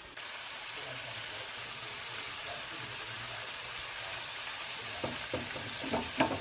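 Chicken pieces deep-frying in hot oil in a lidded home deep fryer: a steady sizzle that starts abruptly, with a few light knocks near the end.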